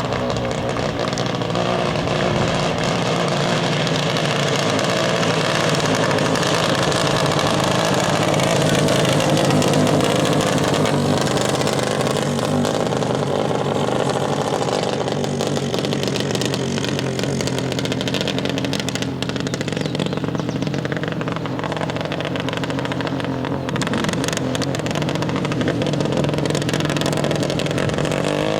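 Several 150 cc racing kart engines running hard in a race, making a continuous, overlapping engine drone that swells and eases slightly as the karts go by.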